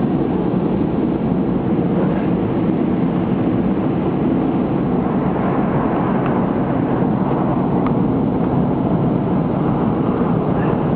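A car wash working on a car, heard from inside the car's cabin: a loud, steady rushing noise with a few faint clicks.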